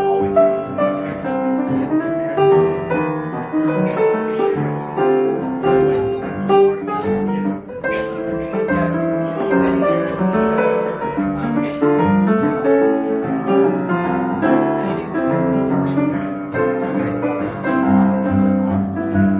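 Live jazz played on piano: a continuous run of chords and melody notes.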